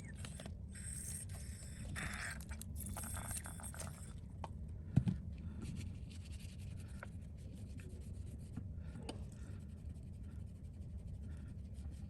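Light scraping and rubbing on the face of a phone's OLED display panel as leftover adhesive is cleaned off, over a steady low hum. One sharp tap comes about five seconds in.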